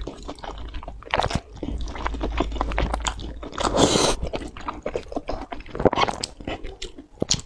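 Close-miked wet chewing of saucy noodles and meat, with many short sticky mouth clicks and a longer noisy smack about four seconds in.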